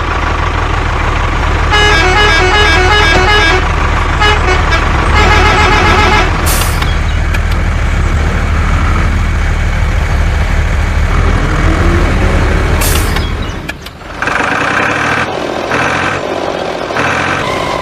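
A truck engine rumbling steadily, with short runs of melodic horn toots over it twice. About fourteen seconds in the rumble stops and a pulsing tonal horn or jingle pattern takes over.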